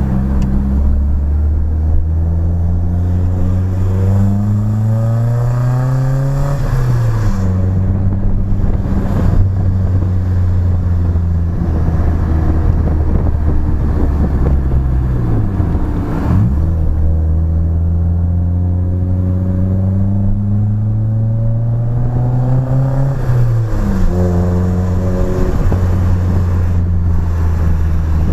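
BMW E30's engine through a new exhaust pulling hard, its revs climbing and then dropping sharply at a gear change about seven seconds in. In the middle the revs fall away, then climb again to a second gear change near the end.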